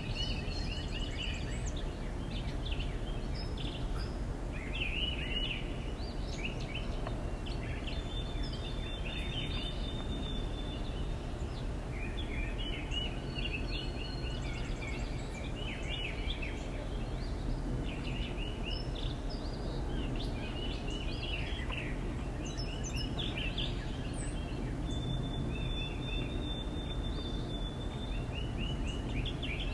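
Small backyard birds calling in quick, stuttering runs of chirps, repeating every second or two, with a few thin high whistled notes, over a steady low background rumble.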